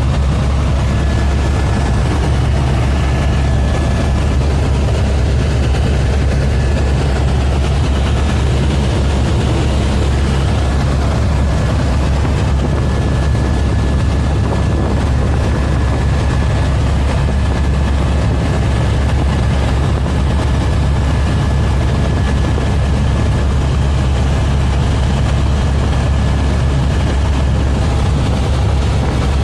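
Helicopter in flight: a steady, loud low drone of engine and rotor, with a faint high whine that comes and goes.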